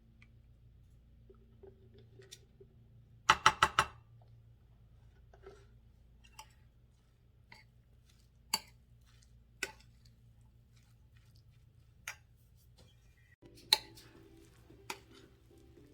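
Light clicks and knocks of a utensil against dishes as mayonnaise is spooned onto shredded chicken: a quick run of about five knocks around three seconds in, then single clicks every second or two. Soft background music comes in near the end.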